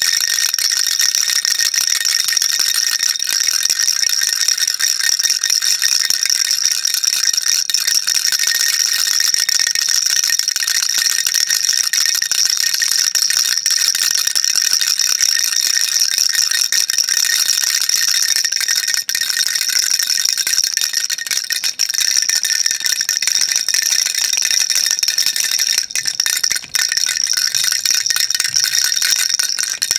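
Baby rattle shaken without a break, a dense, high-pitched rattling with brief dips now and then.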